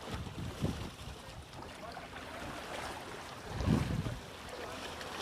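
Wind buffeting the microphone over the sea, with two heavier low gusts, about half a second in and again near four seconds in.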